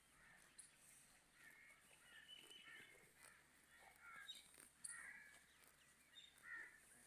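Faint, scattered bird chirps over quiet background noise.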